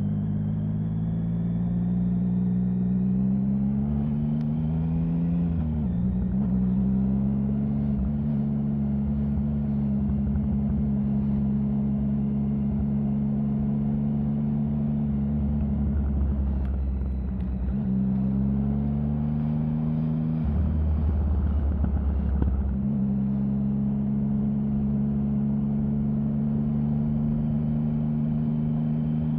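Triumph Sprint 1050's three-cylinder engine running at a steady note. Its pitch climbs and then drops away sharply twice, about 4 seconds in and again about 18 seconds in. After the second drop comes a couple of seconds of rougher low rumble before the steady note returns.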